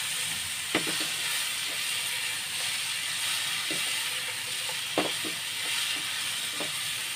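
Bitter gourd strips and mixed vegetables sizzling in oil in a nonstick pan as they are stir-fried with a spatula. A steady hiss, with a few light knocks of the spatula against the pan.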